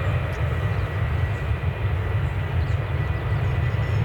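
Jet airliner engines running at high power: a steady low rumble with a thin, constant high whine.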